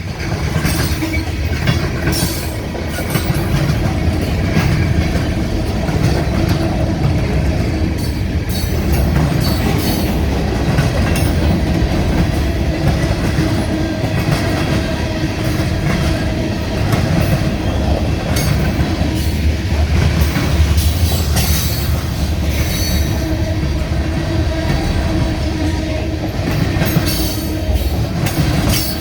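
Freight train rolling past steadily: the heavy rumble of railcars with the repeated clicks of steel wheels over rail joints.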